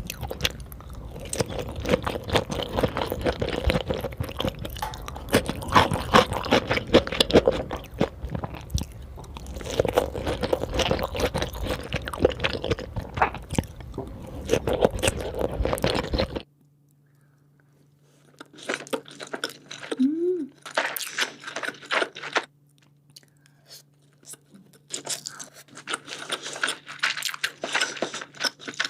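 Close-miked chewing of sushi: wet, crunchy mouth sounds with many small clicks. About sixteen seconds in the sound cuts abruptly quieter, then the chewing comes back in separate bursts.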